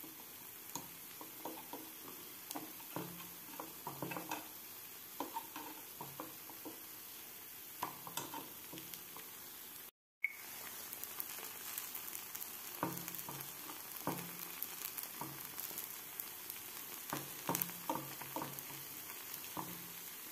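Gunta ponganalu batter frying in oil in a non-stick paniyaram pan with a steady soft sizzle, while a metal fork taps and scrapes against the pan as the dumplings are turned over. The sound cuts out for a moment about halfway.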